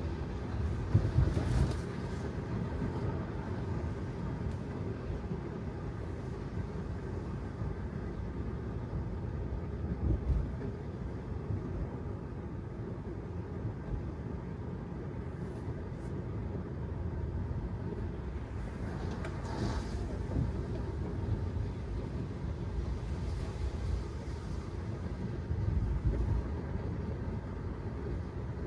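Road and tyre noise of a Tesla Model 3 driving on wet city streets: a steady low rumble, with no engine sound since the car is electric. Three louder bumps, about a second in, near the middle and near the end, and a brief hiss about two-thirds of the way through.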